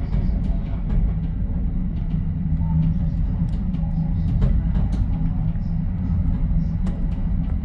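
Commuter train in motion heard from inside its rear cab car: a steady low rumble of wheels on the rails, with scattered small clicks and rattles.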